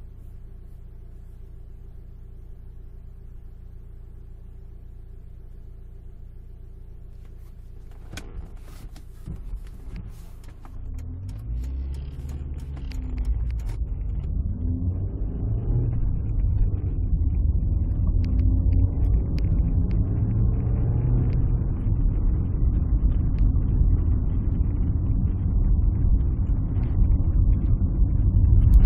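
Alfa Romeo 156 engine idling steadily with the car standing. A few sharp clicks come about eight seconds in. The car then pulls away, and engine and road rumble rise over a few seconds and stay loud.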